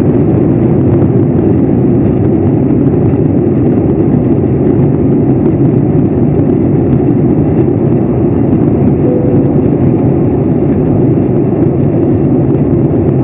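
Steady, loud engine and airflow noise of an airliner, heard from inside the passenger cabin.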